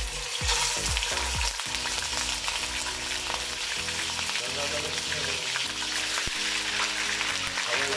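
Raw chicken pieces sizzling as they are dropped into hot oil in a karahi wok: a steady frying hiss.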